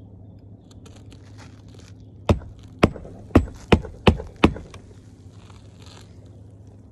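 Six sharp knocks in quick succession, about two a second, over a steady low hum, with faint small clicks and rustles before and after.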